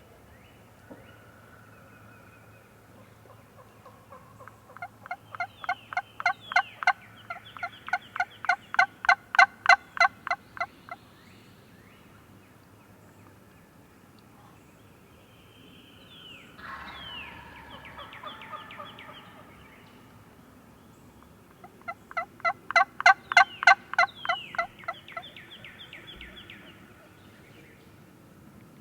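Wild turkey calling: two long runs of rapid, evenly spaced yelps, about four a second, each swelling in loudness and fading, with a fainter, rougher call between them.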